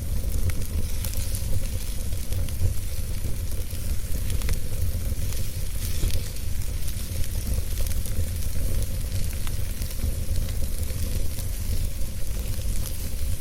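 Wood fire burning with a steady low rumble and hiss, and frequent small crackles and pops scattered throughout.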